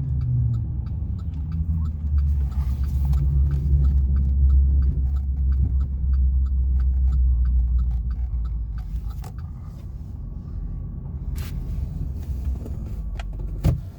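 Chevrolet Silverado 2500HD pickup driving, heard from inside the cab: a steady low engine and road rumble that eases after about eight seconds. A regular light ticking runs through it, and there is one sharp click near the end.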